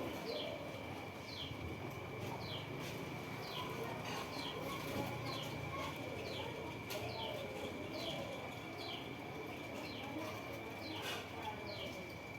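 A bird calling over and over, a short high falling note about twice a second, with a steady high tone and a low murmur underneath.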